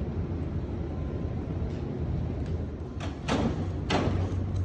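Steady low hum of shop machinery, with a few sharp knocks in the last second and a half.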